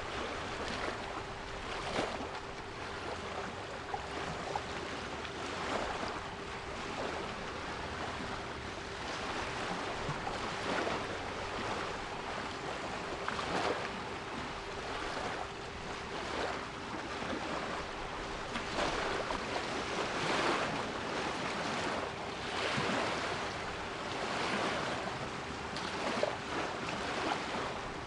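Sea waves washing in and breaking, the surges coming every second or two. Under them runs a steady 396 Hz pure tone.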